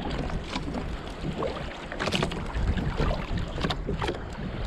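Wind buffeting the microphone over water on an open fishing boat, with a low rumble and scattered small knocks and clicks from line handling and the hull.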